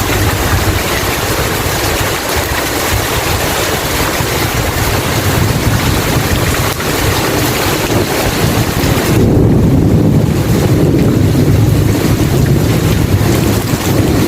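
Steady heavy rain, a dense hiss. About nine seconds in, a low rolling rumble of thunder swells up beneath it and the rain's hiss softens.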